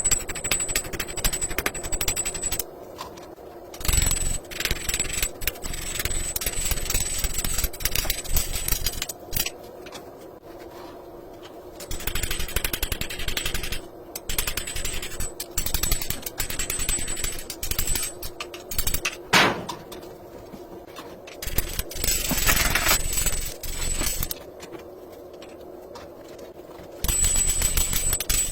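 Steel being forged under rapid hammer blows, coming in dense runs of many strikes separated by quieter pauses of a second or two.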